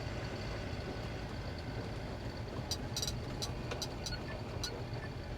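TATA Signa 4225 truck's Cummins diesel engine running steadily, heard from inside the cab as a low rumble, with scattered light clicks and rattles.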